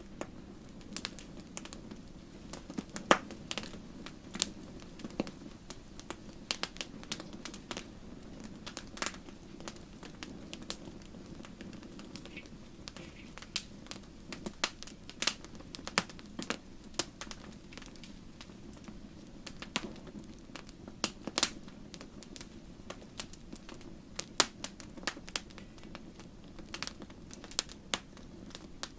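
Wood campfire burning: irregular sharp crackles and pops, some much louder than the rest, over a steady low rush of flame.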